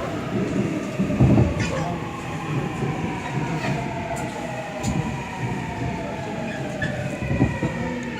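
Seoul Line 7 subway train braking, its motor whine of several tones sliding steadily down in pitch over the rumble of the wheels on the track, with a couple of knocks from the running gear: the train is slowing to stop at a station.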